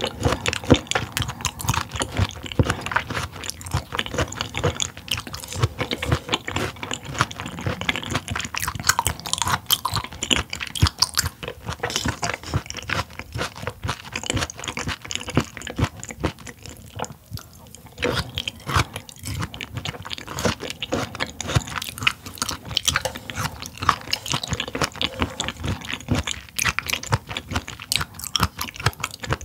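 Close-miked crunchy chewing of raw mullet stomach (숭어밤): a dense run of short crunches and wet clicks, easing off briefly a little past halfway.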